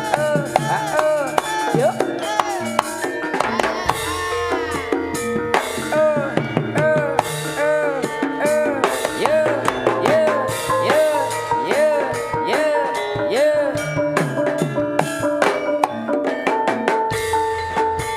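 Live jaranan ensemble music over a sound system: rapid hand-drum strokes with an ornamented melody that swoops up and down in repeated arching phrases. About 17 s in, two steady ringing tones come in under it, like struck gongs sustaining.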